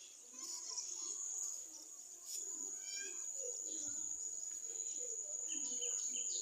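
Insects droning with one steady, high, continuous note, with birds chirping over it: a quick run of chirps about halfway through and a fast repeated call near the end.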